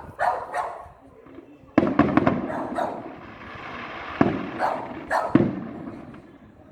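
Fireworks going off in several sharp bangs, each with a long echoing tail: about two seconds in, around four seconds in, and again just after five. A dog barks in short bursts between them.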